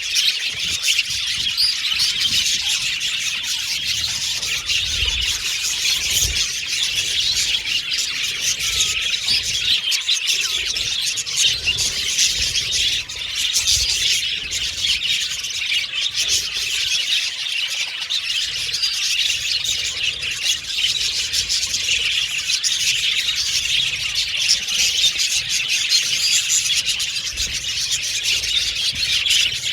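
A colony of budgerigars chirping and chattering together in a dense, unbroken chorus of fast high chirps, with occasional squawks.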